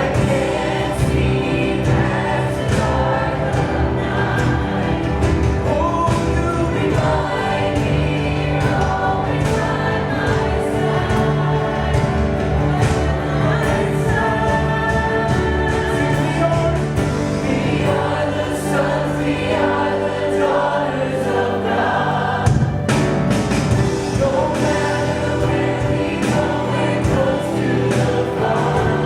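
Congregation and worship band singing a gospel worship song, voices over a full band with a steady beat.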